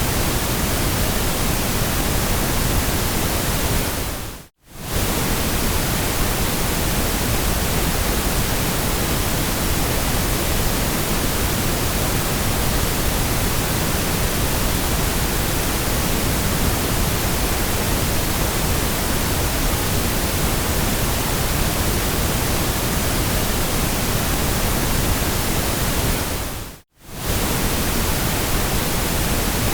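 Steady white-noise hiss, even from low to high pitch, that dips briefly to silence and comes straight back twice, about four and a half seconds in and near the end.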